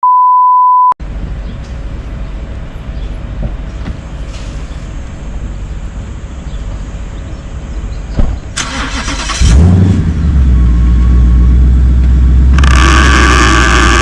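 A one-second 1 kHz beep, then a low rumble. About nine and a half seconds in, a Ford Mustang's engine starts and settles into a steady low running note, with a loud rushing noise laid over it from about twelve and a half seconds in, as the car sits stuck on a narrow driveway.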